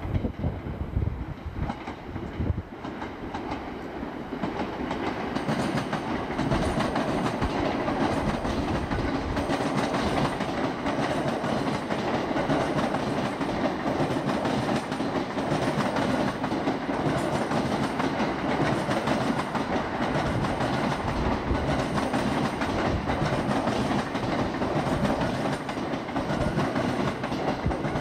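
Electric commuter train running past on multi-track line, wheels clattering over rail joints and points. It grows louder about five seconds in and stays steady.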